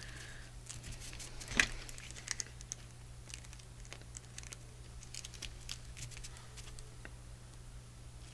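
Faint rustling and light ticks of paper and craft materials being handled, with one sharper click about one and a half seconds in, over a steady low hum.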